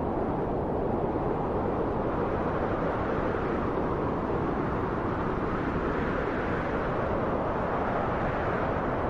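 Steady wind blowing, a low rushing noise that swells slightly a few seconds in.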